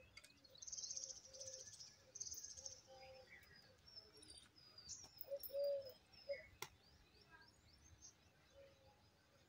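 Wild birds chirping faintly: two short, fast, high trills in the first few seconds, then a run of quick high chirps. About halfway through comes one short, louder, lower call, followed a moment later by a single sharp click.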